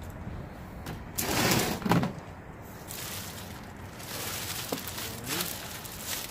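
Rummaging through stored belongings: rustling and handling noises, loudest in a burst about a second in, then quieter shuffling.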